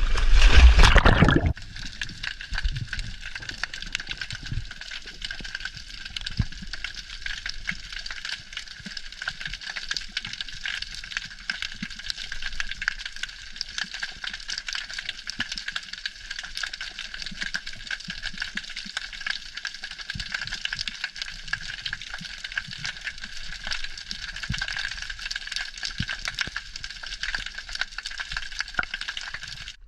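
Splash of a diver entering the sea about the first second, then steady underwater ambience: a continuous hiss with dense fine crackling.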